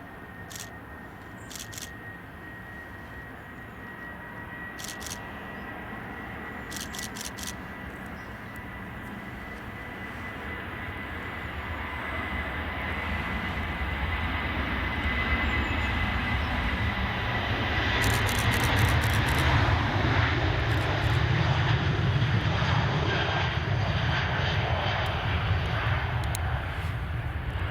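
Jet aircraft engines growing steadily louder as the plane approaches, a high steady whine over a deepening rumble that is loudest in the last third.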